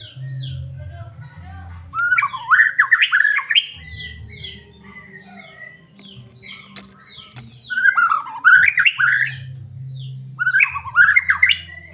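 White-rumped shama (murai batu) singing: three loud bursts of rapid, jumbled phrases, with softer repeated falling notes in between.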